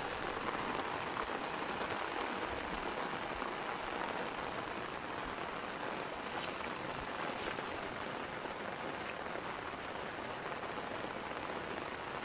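Steady rain, a hiss of drops falling on shallow flood water in a rice paddy.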